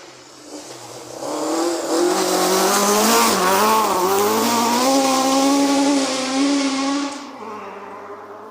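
Rally car passing at speed on a gravel forest stage: the engine runs hard at high revs, with the pitch dipping and climbing again mid-pass as the driver lifts and gets back on the throttle, over a hiss of tyres on gravel. The sound builds about a second in and fades away near the end.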